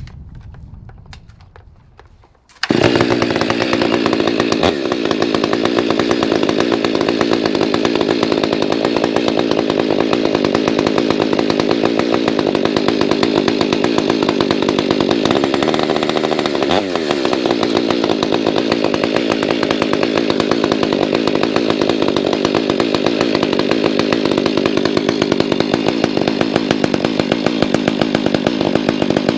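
Stihl MS500i fuel-injected two-stroke chainsaw firing up about three seconds in, then running loud and steady at high revs, with a brief dip in pitch about halfway through.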